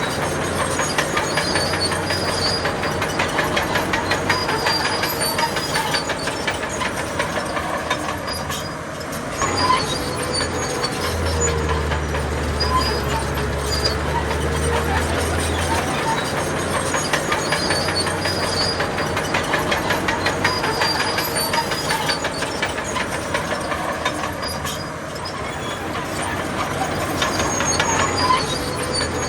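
Heavy earthmoving machinery running, its engine humming steadily under a continuous rapid metallic clatter.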